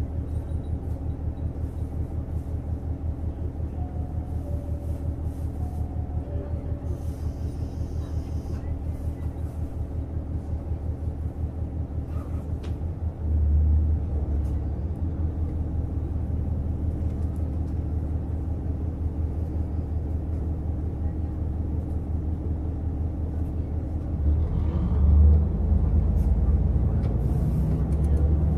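Onboard running sound of a JR Hokkaido KiHa 150 diesel railcar: a steady low diesel rumble with a fast pulsing beat. It steps up in loudness about halfway through and grows louder and fuller again near the end.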